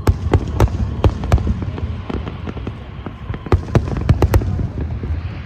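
Fireworks going off: rapid sharp bangs and cracks over a steady low rumble. They come in two clusters, one in the first second and a half and another about three and a half seconds in.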